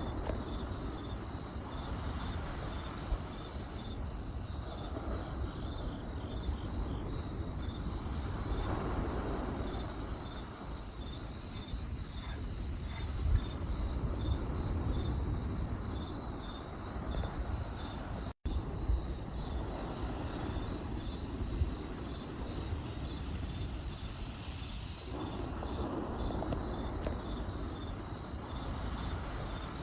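Crickets chirping in a steady, rhythmic pulse over a crackling campfire, with a few sharp pops from the fire. The sound cuts out for an instant a little past the middle.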